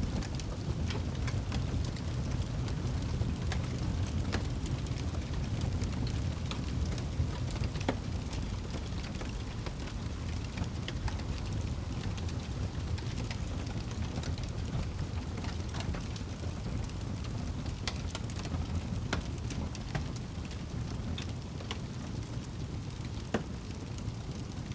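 Wood fire burning in a fireplace: a steady low rumble with frequent sharp crackles and pops scattered through it, one louder pop near the end.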